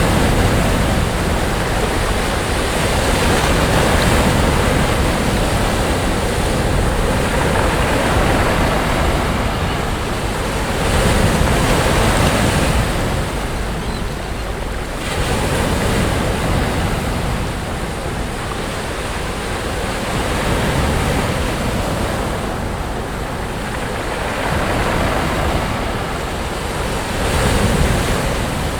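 Sea waves breaking on a beach, the surf swelling and easing every few seconds, with a low rumble of wind on the microphone.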